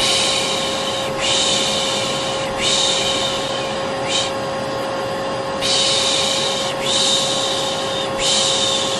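Vacuum cleaner motor running with a steady drone and whine, overlaid by a person's repeated 'shh' shushing for lulling a baby. Most shushes last about a second and follow one another closely, with a short one in the middle.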